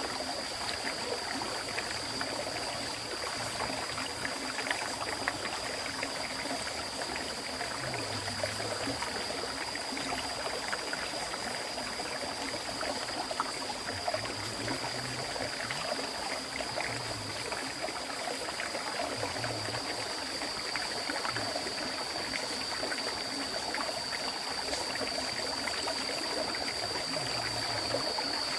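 Flowing river water: a continuous rush dotted with small splashes and gurgles, alongside a steady high-pitched whine.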